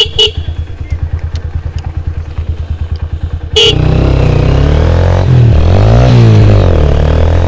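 Lifan KPR motorcycle's single-cylinder engine through an Akrapovic-style aftermarket exhaust: two short horn beeps, then the engine idling with a fast even pulse. About three and a half seconds in, another horn beep as the engine opens up much louder, its pitch rising and falling as it revs.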